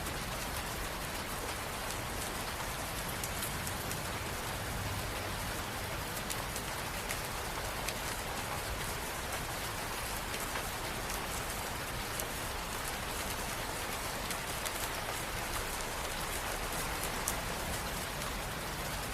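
Steady rainfall, with an even hiss and many small drop ticks that do not change.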